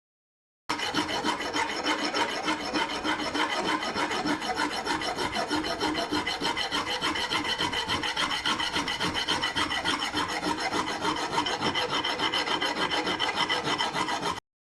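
Hand filing: quick, even back-and-forth strokes of a file or rasp, kept up steadily, starting and stopping abruptly.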